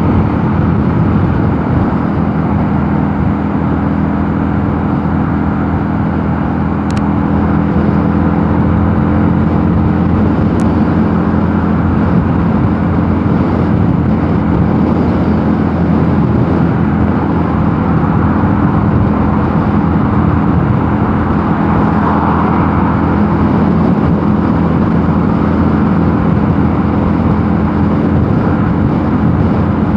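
Mondial Nevada 250 motorcycle engine running under way at steady revs, a constant drone with no change in pitch.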